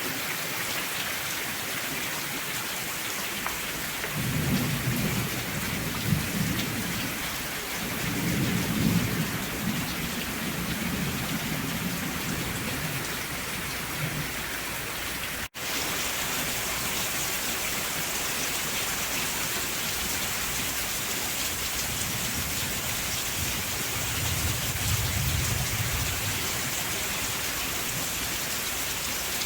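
Steady rain falling, with rolls of thunder rumbling low three times: about four seconds in, again around eight to twelve seconds, and near the end. The sound cuts out for an instant about halfway through.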